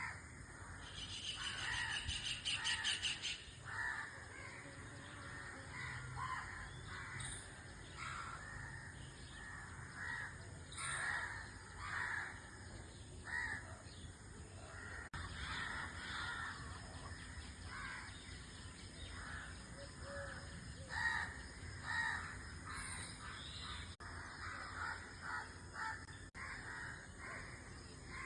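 White-throated kingfisher giving its fast, high, rattling trill, about a second in and lasting about two seconds. Short harsh calls, some of them cawing, are repeated through the rest.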